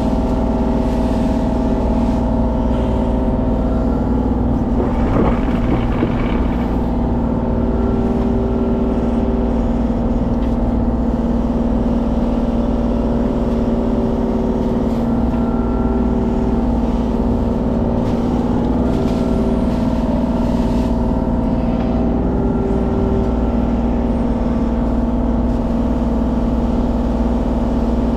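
Mini excavator's diesel engine running steadily under work, with a hydraulic whine that swells and fades as the arm and bucket are worked. There is a brief rougher, noisier stretch about five seconds in.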